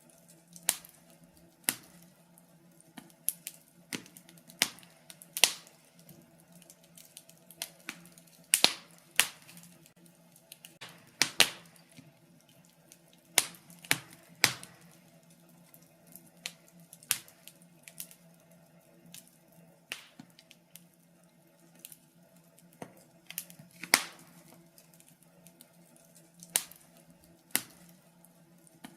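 Wood fire burning in a fireplace, crackling with irregular sharp pops and snaps, some clustered close together and others a few seconds apart, over a faint steady hum.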